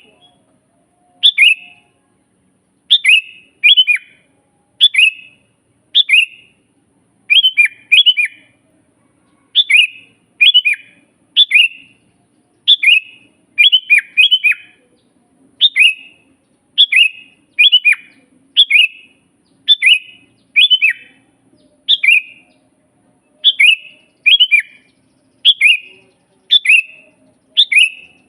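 Sooty-headed bulbul singing persistently: short phrases of two or three falling notes, repeated about once a second and sometimes in quick pairs.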